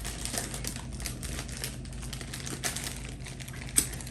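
Food packaging crinkling as it is handled and opened, a run of small irregular crackles with one sharper click near the end.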